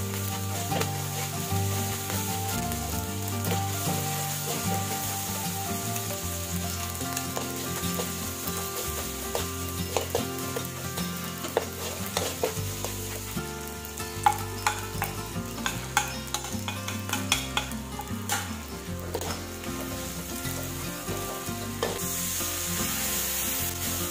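Shrimp paste frying in oil in a metal wok, sizzling steadily while a metal spatula stirs and scrapes it against the pan. The spatula's scrapes and clicks come thickest through the middle, and the sizzle grows brighter near the end.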